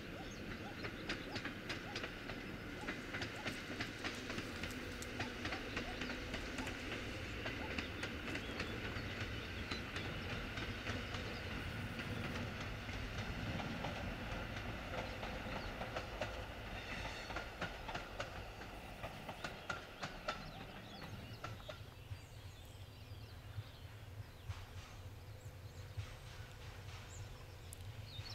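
EN57 electric multiple unit passing, its wheels clicking over the rail joints in a quick, steady clickety-clack over a low rumble. The sound dies away about three-quarters of the way through.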